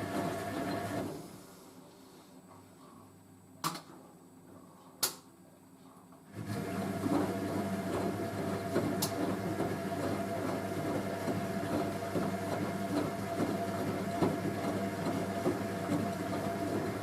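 Hoover A3060 Electronic 1100 washing machine in its heated wash: the drum motor hums and the drum tumbles the load, stops about a second in for a pause of about five seconds broken by two sharp clicks, then starts turning again and tumbles steadily.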